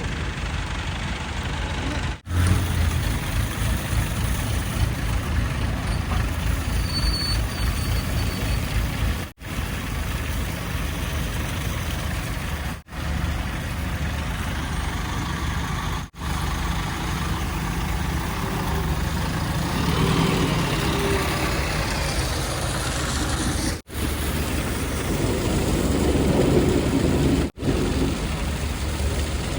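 Heavy diesel engines of a backhoe loader and tipper trucks running steadily at a worksite, with louder passages about two-thirds of the way in and near the end. The sound breaks off abruptly several times.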